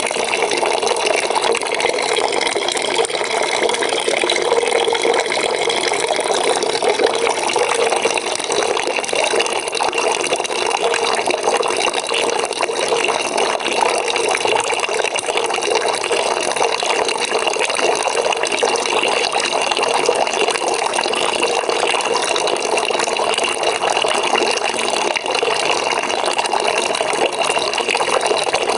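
Water pouring from a tap into a bucket, a steady unbroken splashing and gurgling.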